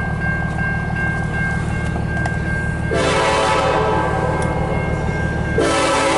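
CN freight locomotive's air horn sounding two long blasts over a low rumble, the first starting about halfway through and the second after a brief break near the end; this is the crossing warning.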